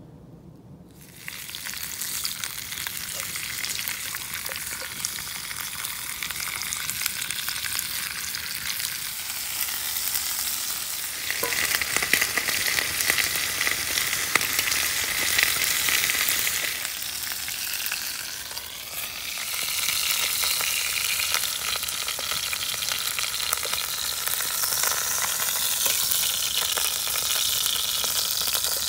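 Vegetables sizzling as they sweat in a pot over a campfire, with a fine crackling hiss. The sizzle starts about a second in and grows louder about eleven seconds in.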